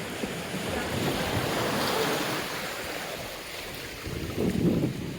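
Sea waves washing onto a sandy beach, a steady hiss of surf that swells about a second in and then eases, with wind noise on the microphone.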